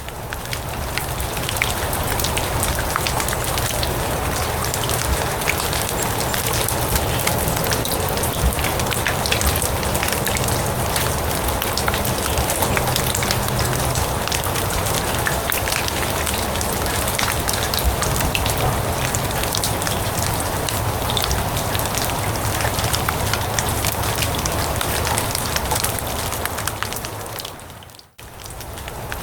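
Steady rain falling on grass, a dense patter of many fine drops. Near the end the sound fades away for a moment and then comes back.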